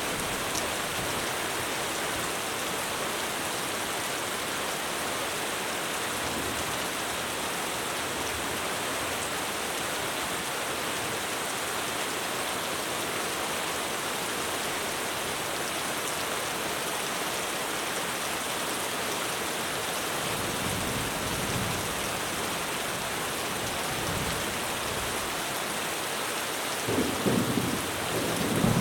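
Heavy rain pouring steadily on a roof. Thunder rumbles low about two-thirds of the way through, and louder near the end.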